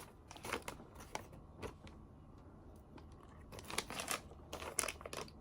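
Packaging crinkling and rustling in short, irregular strokes as items are taken out of a gift package.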